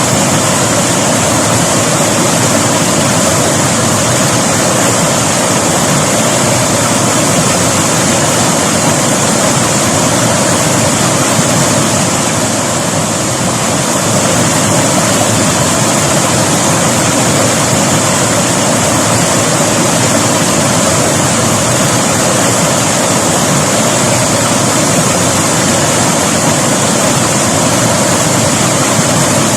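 River water flowing, a loud and steady rush that eases slightly for a moment about halfway through.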